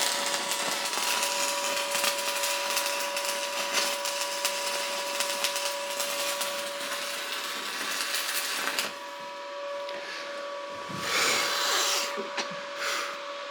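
Electric welding on a seized crankshaft pulley bolt: a steady crackling hiss with a faint whine underneath, running about nine seconds and then stopping abruptly. A nut is being welded onto the bolt so that it can be turned out. A shorter hissing noise follows a couple of seconds later.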